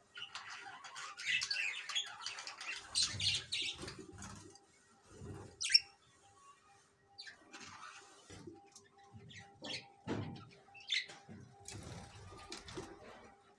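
Birds chirping and calling in short, irregular bursts, with one sharp chirp a little before the middle.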